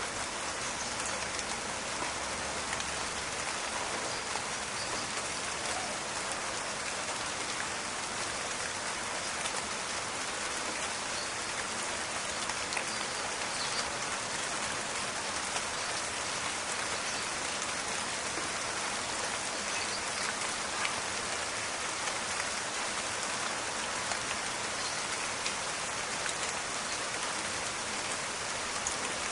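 Steady rain falling in a forest, a dense even patter of drops with small scattered crackling ticks.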